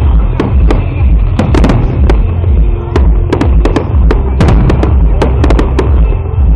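A fireworks display: shells bursting in rapid, irregular succession, sometimes several bangs close together, thinning out near the end. Loud music with a heavy bass plays underneath.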